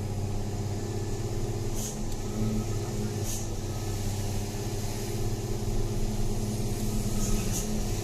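Truck engine running steadily while driving, with three short, faint high ticks.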